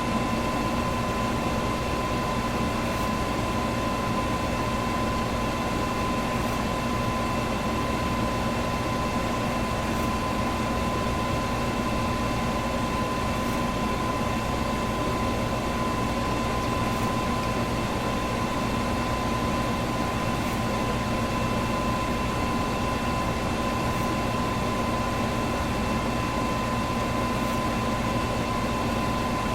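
Electric fan running steadily: an even rushing of air with a constant whining hum on top.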